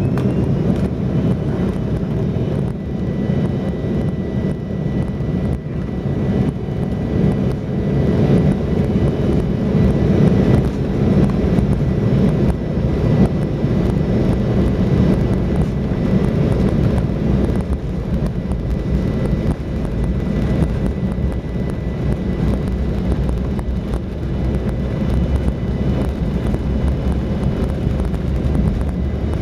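Embraer E170's twin GE CF34-8E turbofan engines at takeoff thrust, heard from inside the cabin: a loud, steady drone with a faint high whine during the takeoff roll and climb-out.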